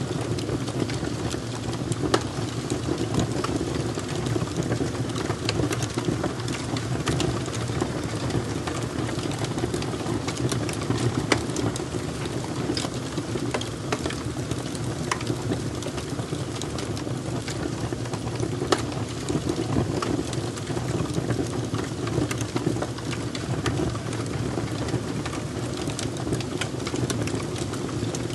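Wood fire crackling: a steady low rush with many scattered sharp pops and snaps.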